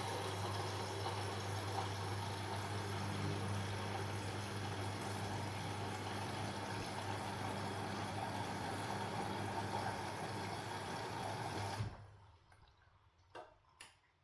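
Washing machine moving water, a steady rush of water over a low electric hum. It cuts off abruptly about twelve seconds in, then comes two small clicks.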